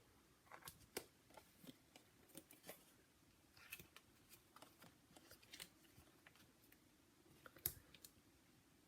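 Faint, scattered ticks and paper rustles of cardstock being handled while adhesive foam dimensionals are pressed onto it, with one sharper tick near the end.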